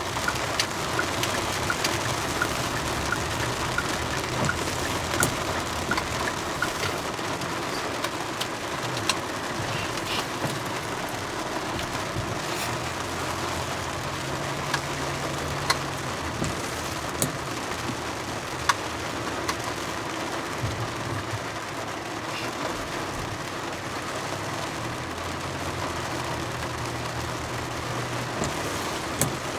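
Steady road and engine noise heard from inside a moving car, with drizzle ticking on the car as scattered sharp drops. A light regular ticking runs through the first several seconds.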